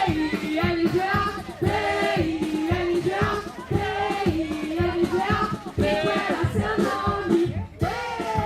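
Group of voices singing a song together, over a regular rhythmic beat.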